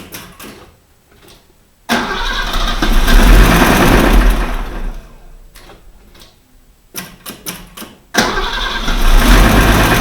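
Mercedes-Benz W123 engine being started twice: about two seconds in it turns over loudly for some three seconds and dies away, then about eight seconds in it turns over loudly again. The engine has a knocked main crankshaft bearing.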